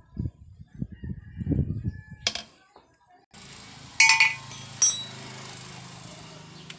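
A few low, muffled knocks and a sharp click, then a rooster crows loudly about four seconds in, followed by a second short call.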